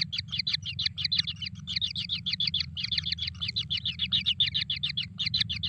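Kingfisher chicks begging for food, a rapid, unbroken series of high chirps at about ten a second. A steady low hum runs underneath.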